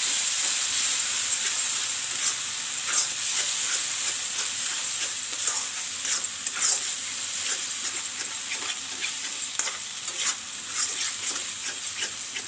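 Onions and onion-tomato paste sizzling in hot oil in a kadai, stirred with a metal spatula that scrapes and clicks against the pan at an irregular pace over a steady frying hiss.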